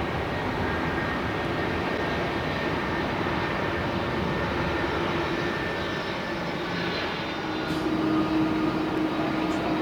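Airbus A330-200 airliner's jet engines running: a steady noise with a faint high whine, growing a little louder about eight seconds in.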